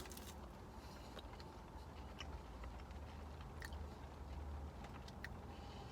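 A person chewing food, with a few faint, scattered clicks over a low steady rumble.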